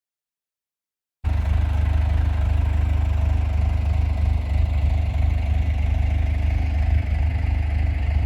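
Dead silence for about a second, then a bulldozer's diesel engine comes in running steadily with a low, even drone.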